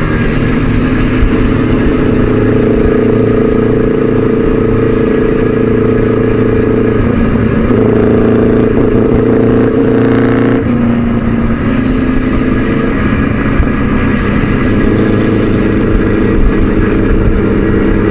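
Motorcycle engines running at cruising speed on the road, with the engine note shifting in pitch about seven and ten and a half seconds in.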